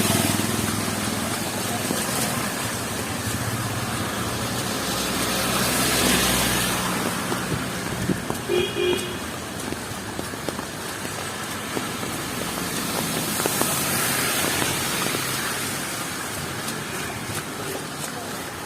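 City street traffic on a wet road in heavy rain: a steady wash of rain and tyre noise that swells as vehicles pass twice. A short horn toot sounds about eight and a half seconds in.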